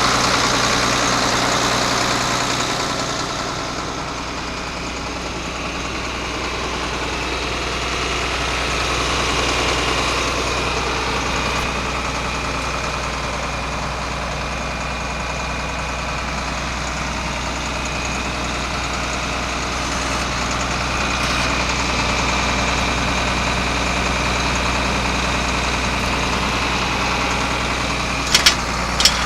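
1978 John Deere 4640 tractor's six-cylinder diesel engine idling steadily, easing slightly lower a few seconds in and then back up. A few sharp clicks come near the end.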